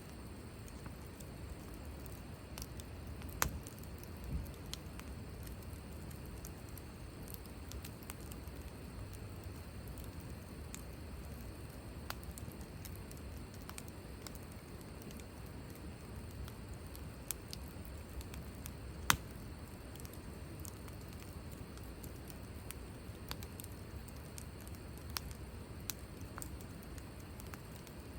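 Wood fire burning with a steady low rumble and scattered sharp pops and crackles from the burning wood, the loudest pop about 19 seconds in.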